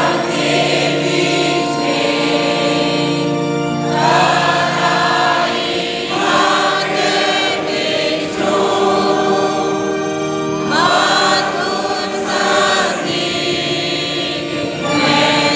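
A choir singing a Christian hymn in phrases of a few seconds each, over steady held accompaniment notes.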